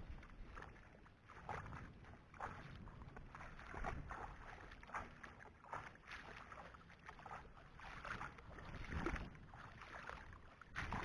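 Irregular sloshing and splashing of shallow water, with a low wind rumble on the microphone.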